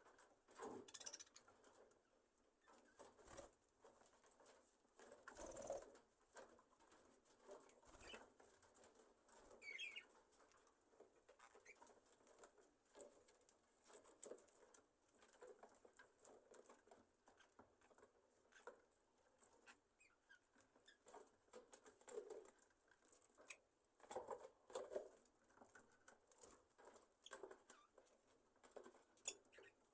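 Budgerigar flock settling for the night: faint, scattered rustling and tapping throughout, with an occasional soft chirp.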